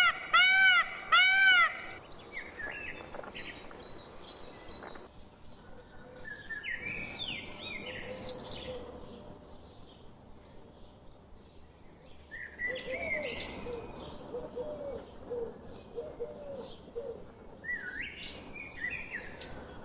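Several birds chirping and calling at once, with a run of lower repeated notes in the second half. It opens with a loud tone that rises and falls, repeating about three times a second, which stops about two seconds in.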